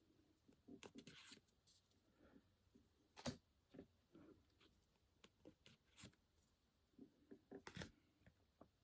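Faint handling sounds of Pokémon trading cards being sorted through: scattered light clicks and short rustles, with the sharpest click a little over three seconds in and another small cluster near the end.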